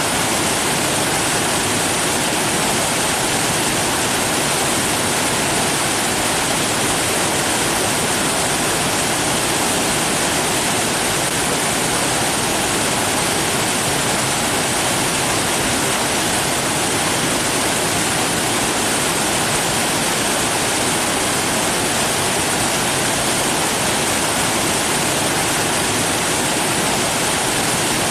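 Steady, unbroken rushing of water, like a waterfall or fast stream, with an even hiss strongest in the high treble and no separate events.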